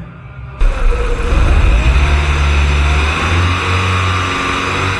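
VW 1.8T 20-valve turbocharged four-cylinder engine in a Golf 2 running, cutting in abruptly about half a second in, with its note rising briefly. No whine from the freshly refitted power steering pump can be heard over it.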